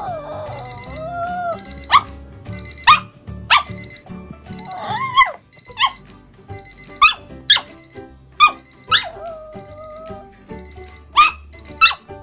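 Toy poodle barking in about ten short, high, sharp yips. Long gliding cries rise and fall near the start and again around the middle, over background music. It is the dog's reaction to hearing an alarm clock.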